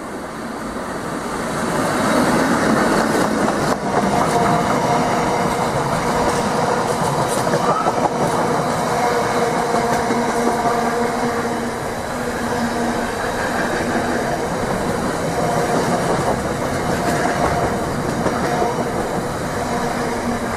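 A train passing at close range, its wheels clattering over the rail joints, with a few steady wheel tones running through the noise; it grows louder about two seconds in and stays loud.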